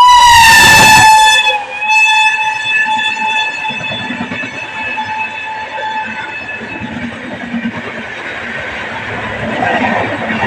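Electric locomotive horn sounding, very loud for about the first second and a half, then after a brief break a long steady blast that fades out about six seconds in. The noise of the fast-moving train then carries on.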